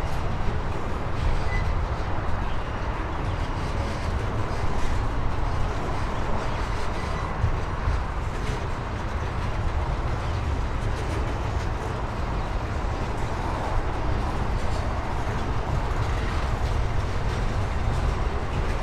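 Container wagons of a freight train rolling past on the rails: a steady, even rumble of wheels on track.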